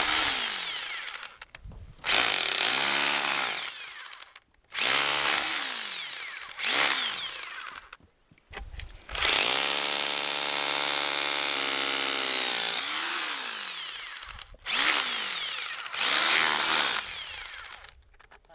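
Handheld electric power tool run in short bursts, its motor spinning up and winding down each time with a grinding hiss, about seven times, with one longer run of about three seconds near the middle.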